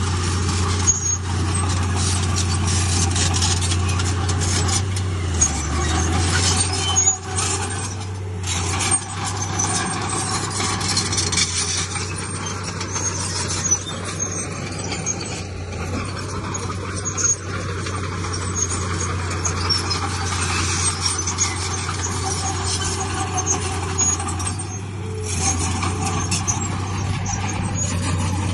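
Heavy diesel earthmoving machinery running steadily under load, with a dense noisy clatter over the engine's low hum and a few sharp knocks.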